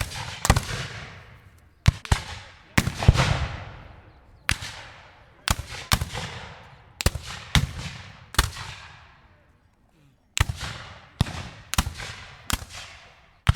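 A series of single gunshots, each followed by a long echoing decay, fired at irregular intervals of about half a second to a second and a half, with a pause of about two seconds in the middle.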